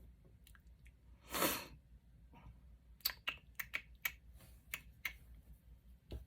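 Paper and small craft pieces handled on a tabletop: a brief rustle, then a quick run of light clicks and taps.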